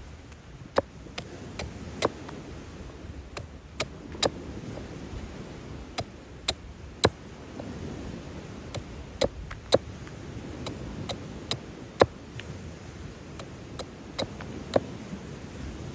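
Irregular sharp clicks and snaps, about one or two a second and some much louder than others, over a steady low rumble of background noise.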